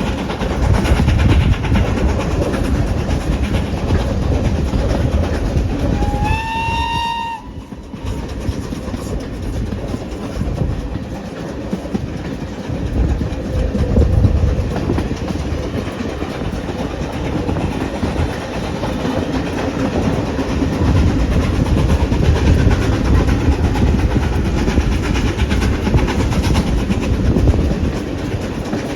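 A heritage train running on the line: a steady heavy rumble with wheels clicking over the rail joints. A single short high toot, rising slightly in pitch, sounds about six seconds in.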